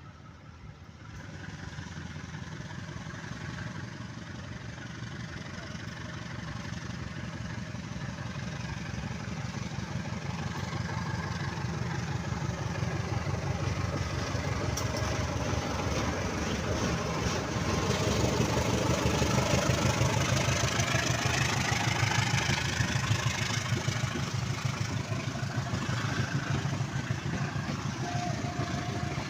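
Diesel train approaching. Its engine throbs steadily and the sound grows louder over about twenty seconds, then eases slightly near the end.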